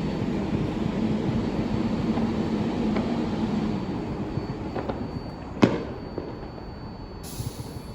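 R188 subway car running on the 7 line: a steady rumble of wheels on rail that eases off about halfway, broken by sharp clacks, the loudest a little past halfway.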